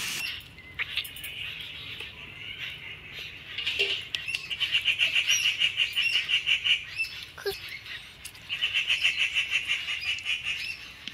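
A bird's rapid trilling chatter, about eight notes a second, in two runs of two to three seconds each, with a few short high chirps between.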